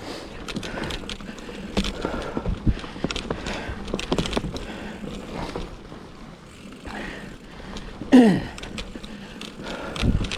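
2007 Cannondale Rush mountain bike rolling over a rough trail: repeated rattles, clicks and knocks from the bike over steady tyre and wind noise. About eight seconds in there is a short falling-pitch sound, the loudest moment.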